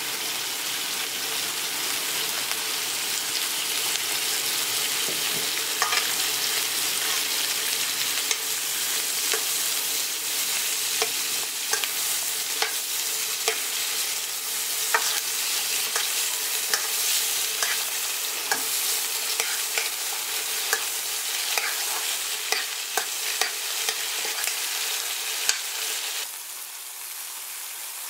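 Asparagus sizzling as it sautés in butter in a wok, with frequent clicks and scrapes of a utensil stirring it against the pan. Near the end the sound drops to a quieter, even frying of cod fillets in a pan.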